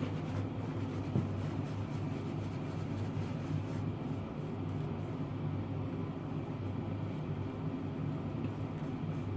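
A steady low mechanical hum with no change, and one faint click about a second in.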